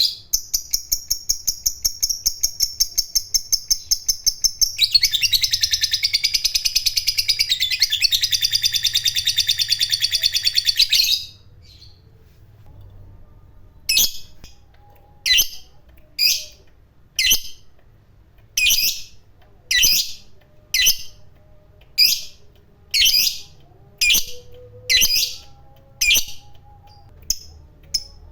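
Lovebird giving its long, rapid, rattling chatter ('ngekek panjang') for about eleven seconds, fuller and louder from about five seconds in. After a short pause it switches to separate sharp chirps at roughly one a second.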